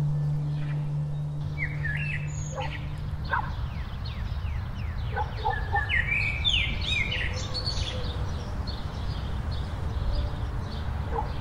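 Birds chirping and calling in quick, repeated short notes. Under them, a low steady tone stops about three seconds in and leaves a low rumble.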